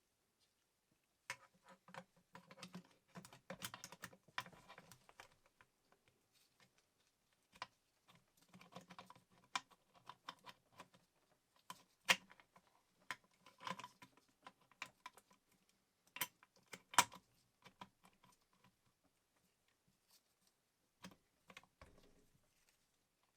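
Sewing machine parts and tools being handled: irregular bursts of small clicks and light metallic clinks, with the sharpest clicks near the middle.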